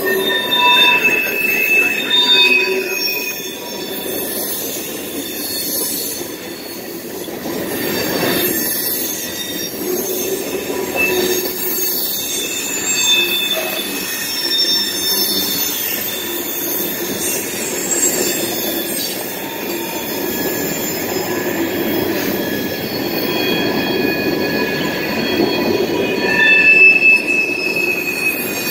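Freight train of boxcars and tank cars rolling steadily past, its car wheels squealing against the rails in shifting high tones over the running noise of the cars.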